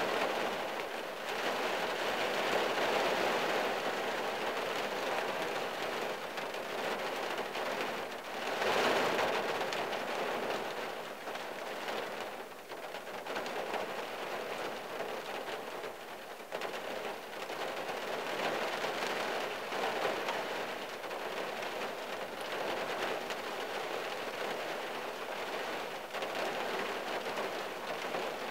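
Steady rain falling on a car, heard from inside the closed cabin, with heavier spells swelling louder about a second in and again around nine seconds in.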